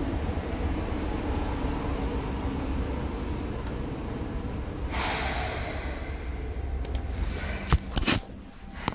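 Running noise inside a Seibu 2000 series electric train: a steady low rumble with faint steady tones. A sudden hiss about five seconds in fades over a second or so, and a few sharp knocks near the end are followed by the sound dropping lower.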